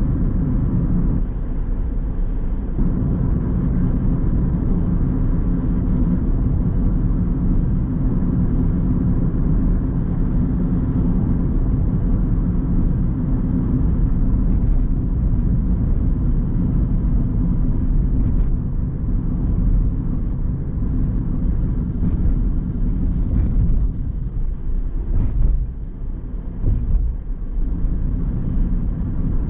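Car on the move: a steady low rumble of engine and road noise that eases briefly near the end.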